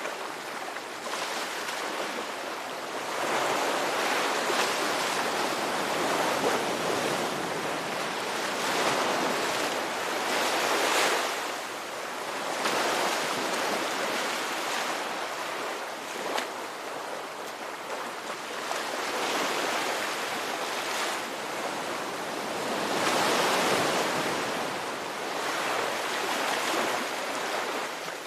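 Ocean surf: waves breaking in a continuous wash of noise that swells and eases every few seconds.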